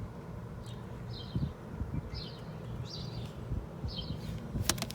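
A bird chirping in short repeated calls, about one a second, over a low outdoor rumble, with one sharp click near the end.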